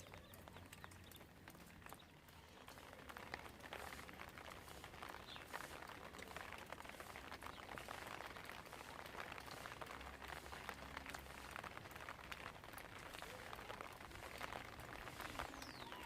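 Rain falling: a dense, faint patter of many small drops.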